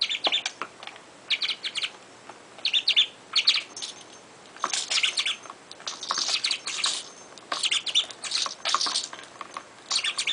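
Budgerigar chirping and chattering in short, repeated bursts of high chirps.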